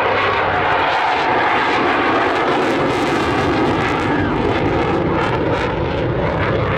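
Fixed-wing military aircraft running in low in formation, the RAF Eurofighter Typhoon jet with a Supermarine Spitfire: a loud, steady engine roar.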